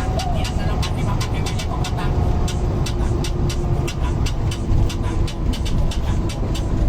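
Mercedes-Benz LO 916 bus's OM924LA four-cylinder turbodiesel running with a steady deep rumble. A fast, regular ticking of about three or four clicks a second runs over it.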